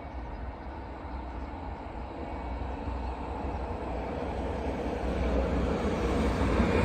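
A train approaching, its rumble growing steadily louder and spreading higher in pitch as it nears.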